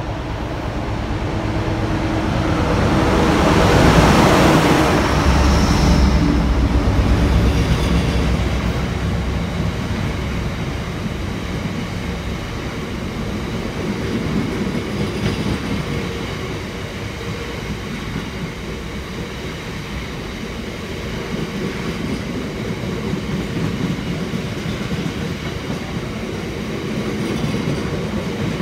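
A Class 60 diesel locomotive passes through at speed, loudest about four seconds in. After it comes a long rake of hopper wagons, a steady rumble of wheels on the track that swells and eases a little as the wagons go by.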